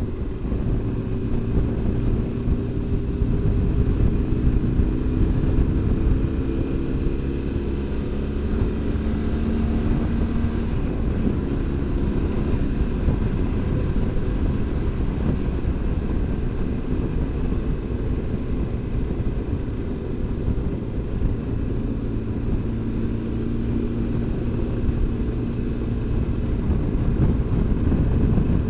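BMW R1200GS Adventure's boxer-twin engine running as the motorcycle is ridden along the road, with a steady rush of wind and road noise. The engine note rises slowly over the first ten seconds and changes pitch about eleven seconds in.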